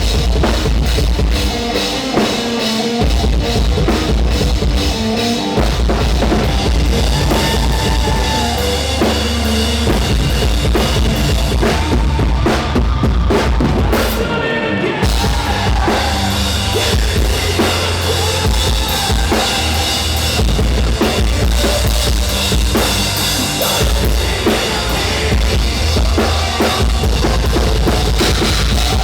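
Loud heavy rock music from a band with a full drum kit, with pounding bass drum and thick low bass under the guitars. The cymbals drop out briefly about halfway through.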